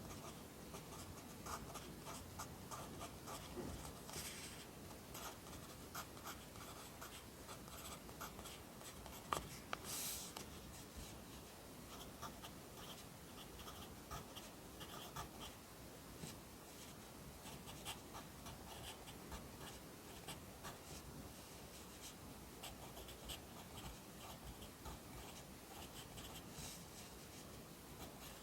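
Pencil writing Korean characters by hand on paper: a steady run of short scratching strokes and small taps. A sharp tap about nine seconds in, followed by a brief rustle.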